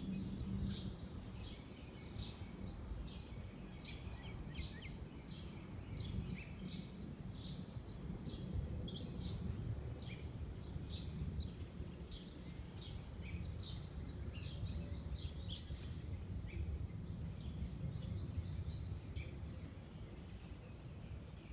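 Small birds chirping, many short high calls following one another, over a steady low outdoor rumble.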